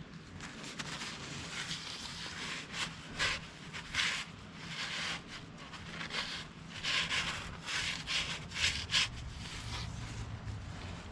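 Irregular scraping and rubbing strokes of metal parts being worked into place by hand on a backhoe, over a faint steady low hum.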